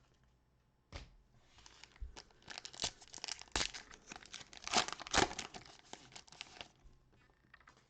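A foil trading-card pack wrapper being torn open and crinkled, a run of crackling rips and rustles lasting about six seconds.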